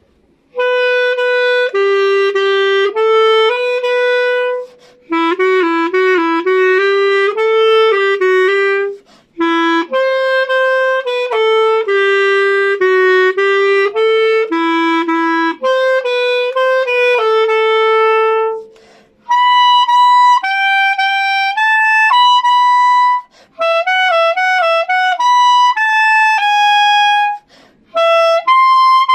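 Solo clarinet playing a pop melody with no accompaniment, in phrases of held and repeated notes separated by short breaths; about two-thirds of the way through the melody moves up about an octave.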